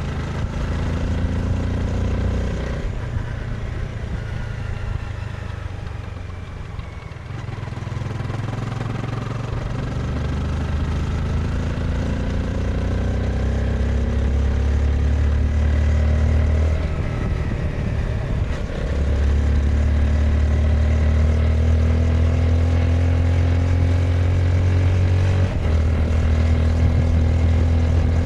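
Honda CBR 250R's single-cylinder engine under way, heard from the rider's seat: it eases off and quietens near the start, then pulls with pitch climbing, breaking briefly for gear changes about two-thirds through and again near the end.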